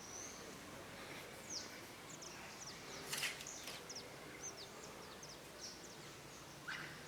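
Birds calling: many short, high, thin chirps that drop in pitch, scattered irregularly, with one brief harsher call about three seconds in, over a faint steady background.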